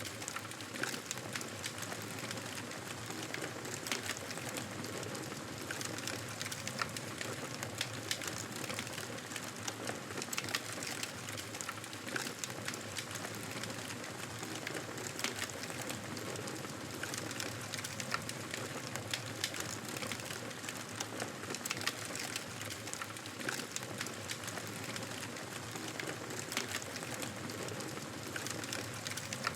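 Wood fire crackling in a fireplace: a soft steady hiss with frequent small pops and snaps.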